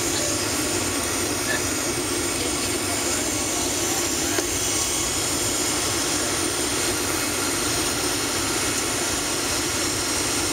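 Steady jet airliner cabin noise inside a Boeing 757-300: engine and airflow rush heard from the first-class cabin at constant level.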